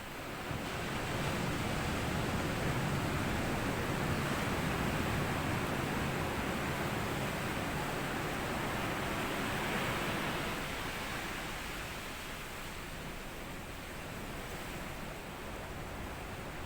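Small sea waves washing up over sand and dry leaves at the shoreline: a wave swells in about half a second in, holds, and slowly ebbs after about ten seconds.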